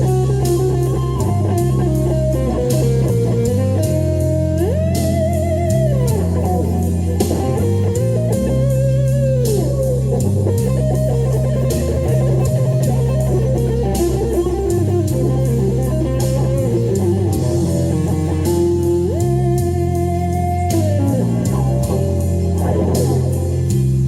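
Electric guitar lead played over a blues-rock backing track with bass and drums, with notes bent upward and held, about 5 seconds in and again near 19 seconds.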